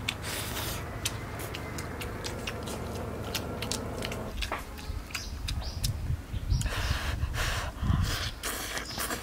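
Close-up eating sounds: a person chewing mouthfuls of rice and minced stir-fried pork, with many small wet clicks and lip smacks and dull low thuds of chewing.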